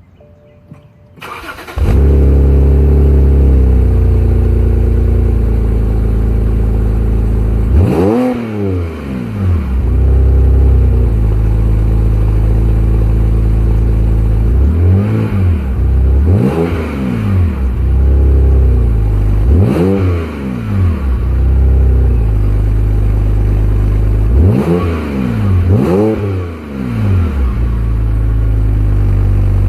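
BMW 328 (E9x) straight-six engine breathing through an Active Autowerke Gen II sport exhaust and mid-pipes: it starts up about a second and a half in and settles into a steady fast idle. It is then revved in a series of quick throttle blips, each rising and falling in pitch, returning to idle between them.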